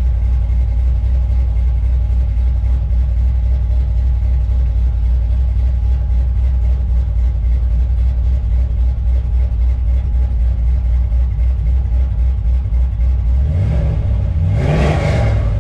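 LS V8 running steadily through a straight-through true-dual 2.5-inch exhaust with Flowmaster 40 mufflers and no X-pipe, a deep, even rumble. About a second and a half before the end, a brief louder surge rises and falls.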